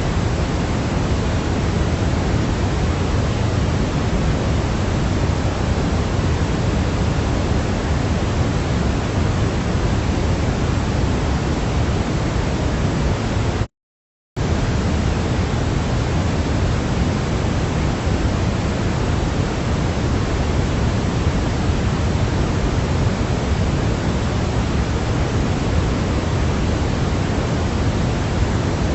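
Steady sleep white noise, an even rushing hiss weighted toward the low end. It cuts out to silence for about half a second midway, then resumes unchanged.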